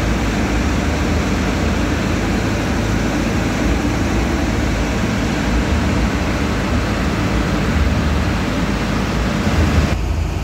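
A steady, loud engine drone under an even hiss. The upper hiss falls away just before the end.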